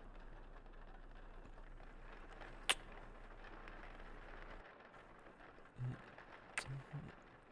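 Kissing sounds over a soft steady rain bed: two sharp lip smacks, one a little under three seconds in and one near the end, with a few brief low mouth sounds around them.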